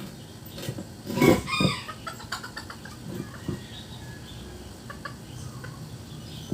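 A chicken calls once, loudly and briefly, about a second in, followed by a few faint knocks.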